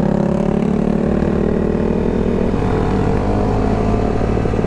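Honda Grom 125cc single-cylinder engine running steadily under way, its note rising slightly partway through.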